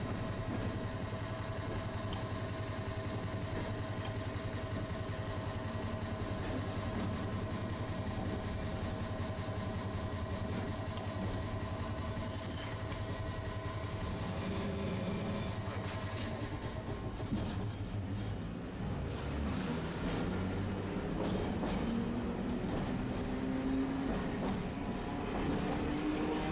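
Tosaden streetcar running on its tracks, a steady rumble and motor hum. In the last several seconds a whine rises slowly in pitch as the tram picks up speed.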